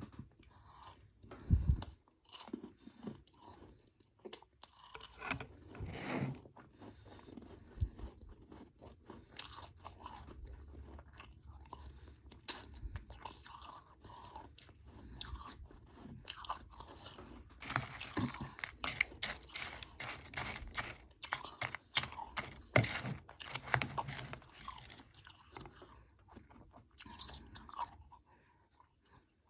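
Close-up chewing and crunching of frozen powdery ice and small ice chunks, a run of crisp crackling bites. The crunching is densest and loudest in the second half.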